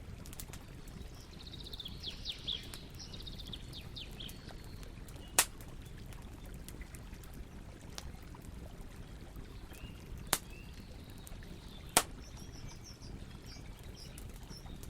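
Campfire burning with a steady low rustle and sharp crackles, three loud pops standing out about five, ten and twelve seconds in. Birds chirp in the background, most clearly a couple of seconds in.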